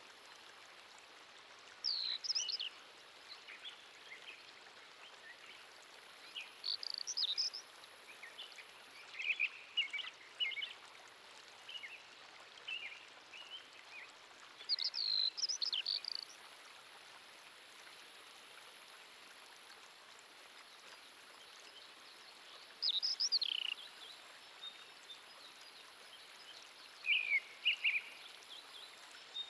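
Songbirds calling in short chirping phrases a few seconds apart, over a steady high hiss of natural ambience.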